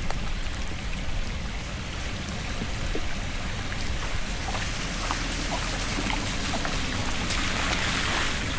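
Water running and splashing steadily, with scattered small splashes and a rushing hiss that swells louder about seven seconds in.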